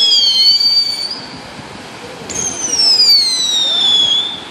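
Two whistling fireworks, each a shrill whistle of about two seconds that falls steadily in pitch. The first dies out about a second in, and the second starts sharply about two seconds in.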